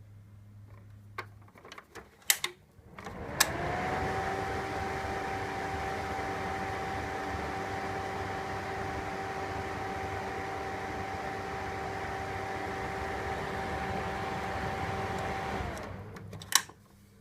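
Daiken (Seibu Denko) EK-2525G ventilation fan from 1980 being switched on in its exhaust setting: a few clicks, then a sharp click as the rotary switch turns, and the motor spins up with a rising whine into a steady hum and whine. Near the end the tone drops as it is switched off and winds down, followed by another click.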